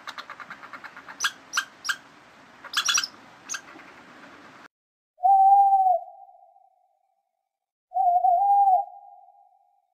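A squirrel chattering: a quick run of ticks, then several sharp squeaks, which cut off just before the middle. Then an owl hoots twice, each hoot one steady note under a second long, the two about three seconds apart.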